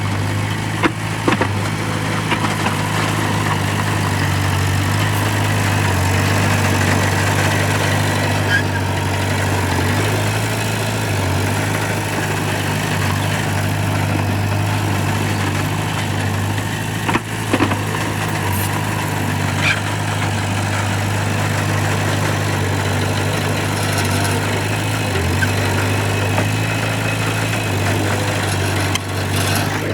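Heavy diesel engine of earthmoving equipment running steadily, with a few sharp knocks over it.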